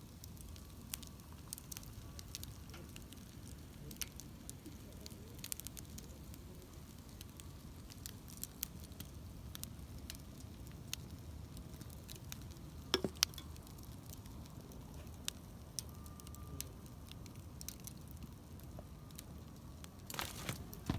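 Wood campfire crackling: irregular sharp pops over a low, steady rustle, with a louder pop about thirteen seconds in and a quick cluster of pops near the end.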